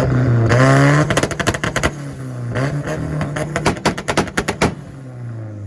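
A Nissan car's engine revved up and held on a two-step launch limiter, firing rapid strings of sharp exhaust pops and bangs. The revs drop away near the end.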